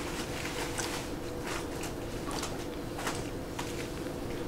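Faint chewing on a bite of tender cooked meat, a few soft mouth clicks over a steady low hum in the room.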